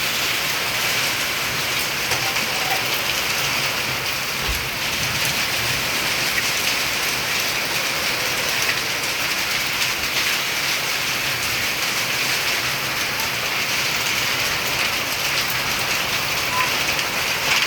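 Steady heavy rain from a thunderstorm, falling and pattering on surfaces as a constant hiss of fine drops.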